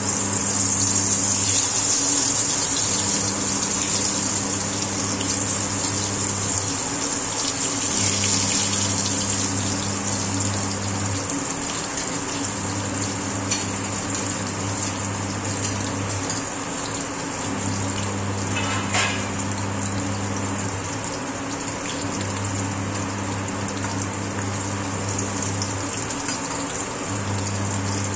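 Brinjal slices sizzling in hot oil in a kadai, loudest in the first few seconds after they go in, with a couple of sharp crackles of spattering oil later on. A low hum pulses on and off about every three seconds underneath.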